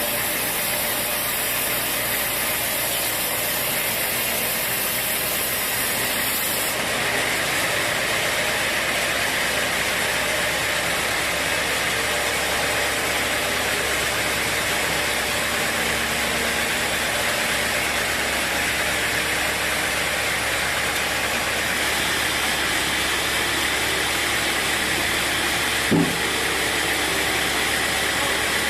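Sawmill machinery running with a steady, noisy whir; its tone shifts about seven seconds in. A short knock comes near the end.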